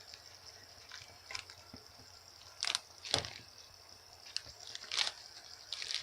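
Pot of water at a boil over a homemade alcohol stove burning hand sanitizer: a steady high hiss with scattered pops and crackles, the strongest about halfway through.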